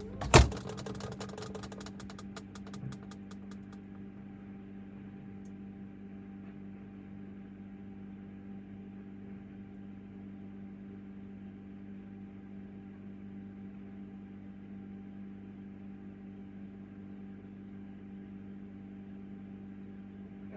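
A single sharp knock about half a second in, then a steady hum of several held tones from a running household appliance.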